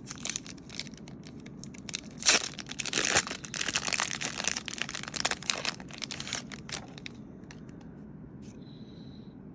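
Pokémon TCG booster pack's foil wrapper crinkling and tearing as it is opened, with a sharp crack a little over two seconds in. The crinkling dies down after about seven seconds.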